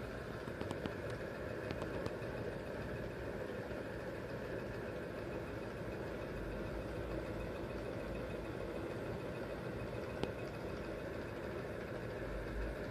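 Small Stirling engine running steadily, a constant whirring hum with a few faint ticks.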